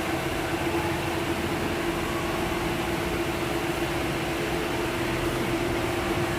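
A steady machine hum: an even whir with one constant low-mid tone, unchanging throughout.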